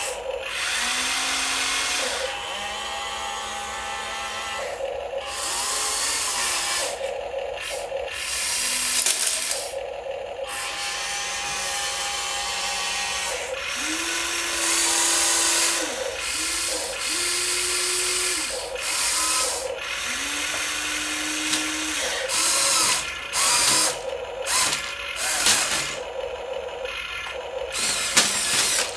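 Small electric motors and plastic gearboxes of radio-controlled toy vehicles whirring in repeated runs of a second or two, starting and stopping, with short steady motor whines between them.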